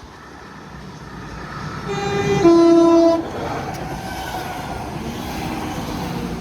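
Passenger train approaching the level crossing and sounding its two-tone horn about two seconds in, a shorter higher note then a louder, longer lower note. Steady running noise as it passes the crossing.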